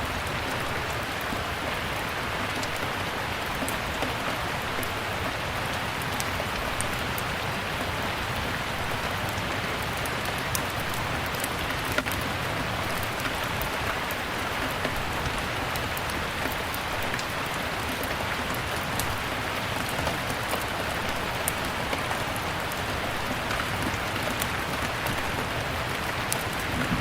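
Steady rain falling, with many small sharp crackles from a wood fire scattered throughout.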